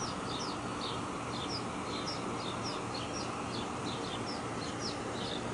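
Small birds chirping: a quick, unbroken series of short high chirps, two or three a second, over steady background noise.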